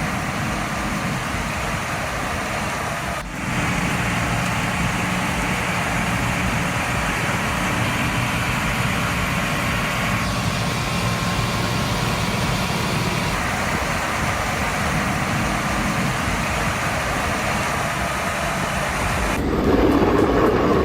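Engine of a snow-clearing machine running steadily under load, with abrupt changes in the sound about three seconds in and near the end.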